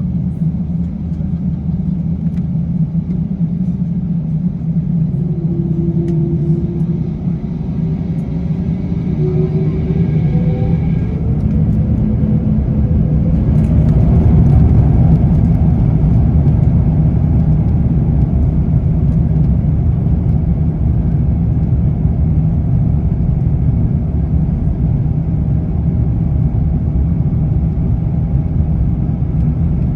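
Airbus A350-900's Rolls-Royce Trent XWB engines heard from inside the cabin, spooling up to takeoff thrust with a rising whine. About halfway through, a heavy, steady rumble of engine noise and the takeoff roll grows louder and holds.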